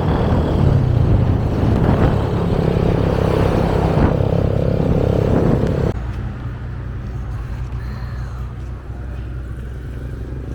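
Motorcycle engine running steadily on the road, with road and wind noise. About six seconds in, the sound drops suddenly to a quieter, lower engine hum.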